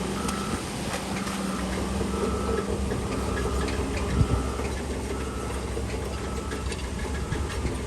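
Heavy earthmoving machine's diesel engine running steadily while a reversing alarm beeps about once a second, with scattered clatter and one thump about four seconds in.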